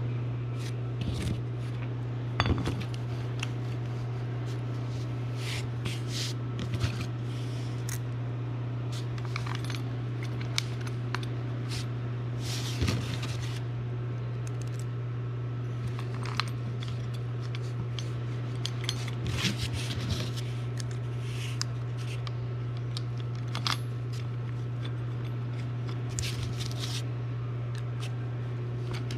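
Scattered metallic clinks and taps of small metal parts and tools being handled, irregular and spread over the whole stretch, over a steady low hum.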